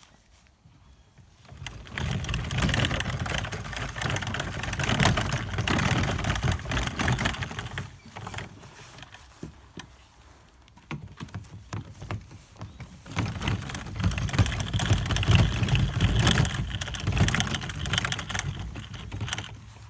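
Homemade kayak landing gear rattling as the kayak is rolled along on its pressure-washer wheels, in two long stretches with a quieter pause between. Most of the rattle is the loose retaining pins in the metal frame.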